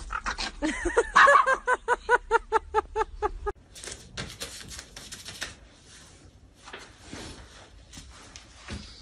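A dog yapping in a fast, even run of short, high barks, about six a second, while two dogs play-fight; the barking cuts off suddenly a few seconds in. Fainter scuffing and handling noises follow.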